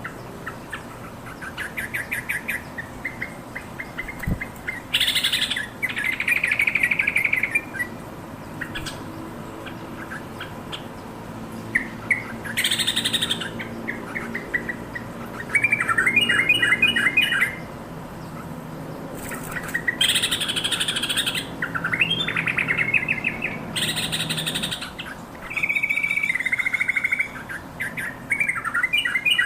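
Yellow-vented bulbul calling: a run of short, quick chattering phrases and harsh scratchy bursts, a new phrase every second or two.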